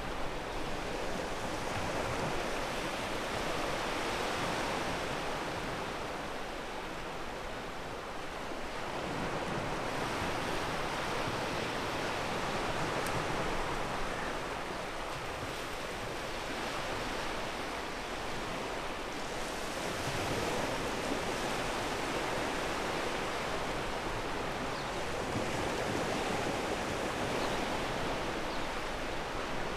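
Ocean waves breaking and washing over a pebble beach, a steady rush that swells and eases every several seconds.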